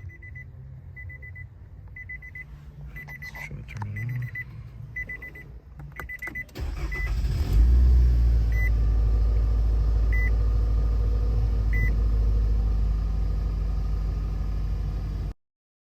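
A car's warning chime beeps about once a second, then the 2015 Nissan Altima's engine cranks and starts about six and a half seconds in and runs steadily, a few slower beeps continuing over it; it starts now that its rat-chewed wiring harness has been rewired. The sound cuts off suddenly near the end.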